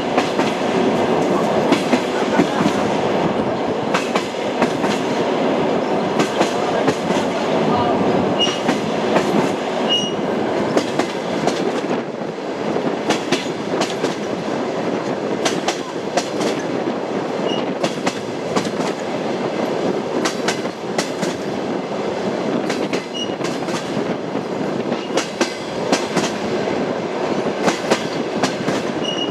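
Train in motion: a steady rumble of the rail car with the clickety-clack of its wheels knocking over the rail joints, and many sharp clicks scattered throughout.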